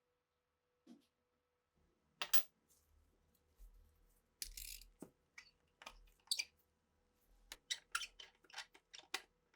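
Metal parts of an old pistol clicking and clinking as it is handled and taken apart. A faint click comes about a second in, then from about two seconds a run of sharp clicks, with a short scrape near the middle.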